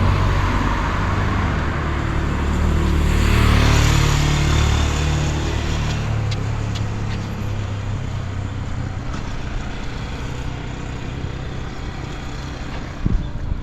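A motor engine passing close by, its hum swelling and shifting in pitch in the first few seconds and then fading, over a steady rushing noise. A short knock comes near the end.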